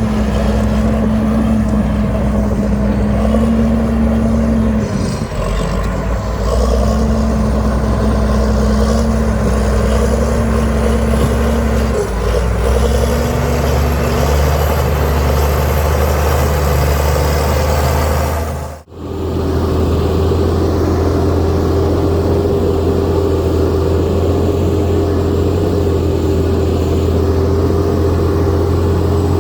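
Heavy diesel construction machinery running steadily, its engine note stepping up and down a few times. About two-thirds of the way through, the sound cuts abruptly to a different steady engine drone.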